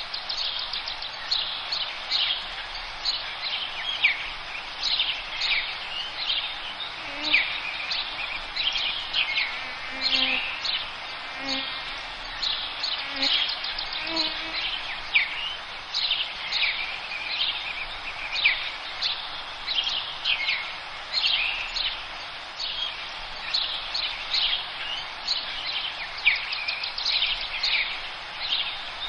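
Forest birdsong: many birds chirping at once, a continuous stream of short, quick, high descending notes, over a steady background hiss.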